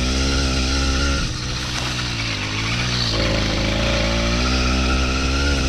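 Small 80cc two-stroke engine on a motorised mountain bike running under way, its note dipping about a second in and picking up again around three seconds as the throttle changes.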